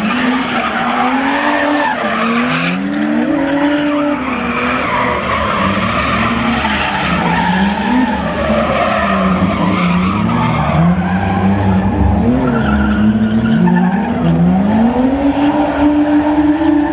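Drift car's engine revving up and down again and again through a slide, with the tyres skidding and squealing throughout.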